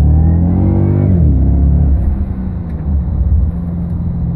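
Holden Commodore's 6.2-litre LS3 V8 accelerating, heard from inside the cabin: the engine note rises, drops about a second in, then settles into a steady lower drone.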